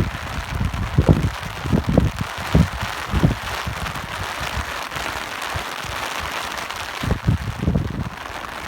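Steady rain hiss, with irregular low rumbling gusts of wind coming and going, strongest in the first few seconds and again near the end.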